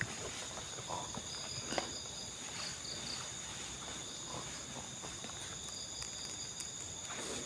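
A chorus of night insects trilling steadily at two high pitches, with a few faint rustles and ticks.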